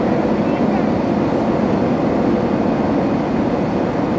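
Steady rushing cabin noise of an airliner in flight, engines and airflow heard from inside the passenger cabin, even and unbroken.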